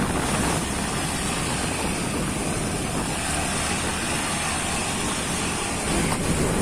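Truck on the move: a steady engine drone mixed with road and tyre noise.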